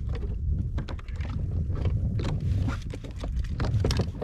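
Many quick knocks and clicks of handling on a kayak, over a low rumble of wind on the microphone.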